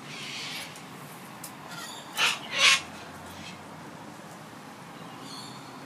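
A bird gives two short, harsh screeches about half a second apart, a little over two seconds in.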